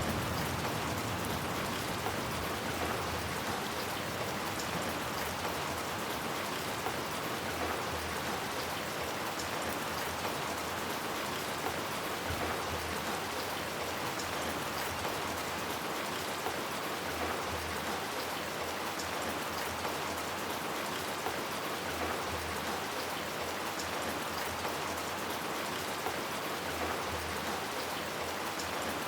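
Steady rain falling, an even hiss of drops that neither builds nor lets up.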